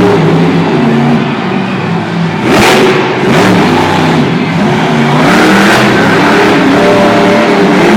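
Monster truck engine revving hard, its pitch rising and falling repeatedly, with louder surges about two and a half seconds in and again past five seconds.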